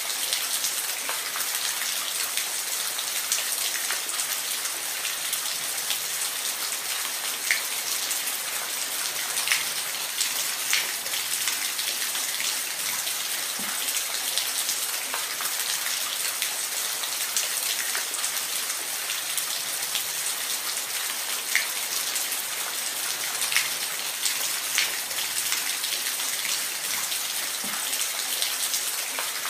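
Steady rain falling, an even hiss with single drops now and then ticking out more sharply.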